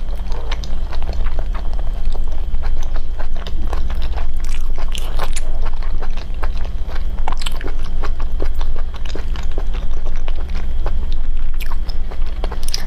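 Close-miked chewing and biting with many short wet clicks, as braised shellfish meat is pulled from the shells by hand and eaten. A steady low hum runs underneath.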